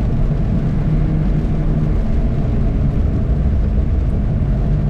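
Car engine and tyre noise heard from inside the cabin while lapping a race track: a steady, loud, low drone with no breaks.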